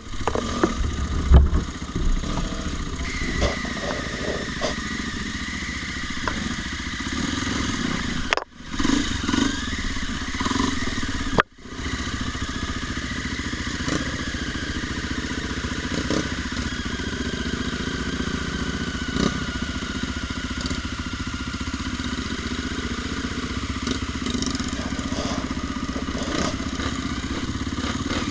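A vehicle engine, most like a motorcycle's, running steadily, its pitch drifting gently up and down, with two short breaks in the sound partway through.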